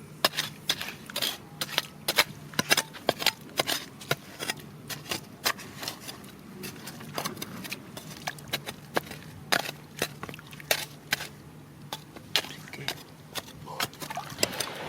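Stones and gravel clicking and knocking together as they are handled and sorted, sharp irregular knocks a few times a second, over a faint steady low hum.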